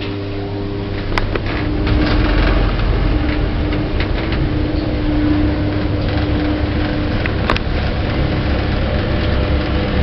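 Associated Lift Services lift car travelling between floors: a steady drive hum and rumble with a faint held whine, louder from about two seconds in, and two light clicks.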